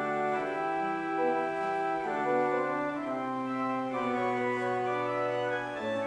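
Organ playing slow, sustained chords, the bass note stepping down about three seconds in and again near the end.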